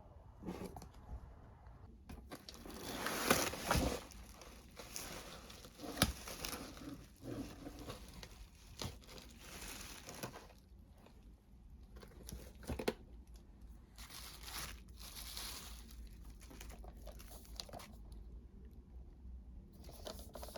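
Packaging being handled and torn open: irregular crinkling and tearing, loudest a few seconds in, with a few sharp clicks between.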